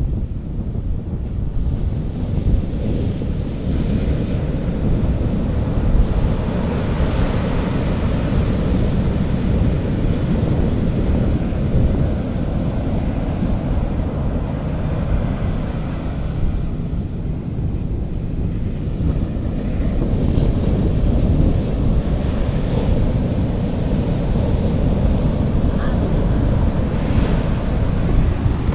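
Sea waves washing onto a beach, the hiss of the surf swelling and fading in slow surges, over a steady low rumble of wind on the microphone.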